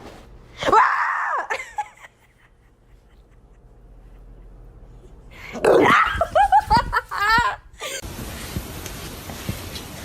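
A dog vocalizing in two bouts: one call with bending pitch about a second in, then a quick run of short calls around six to seven seconds. An even hiss follows near the end.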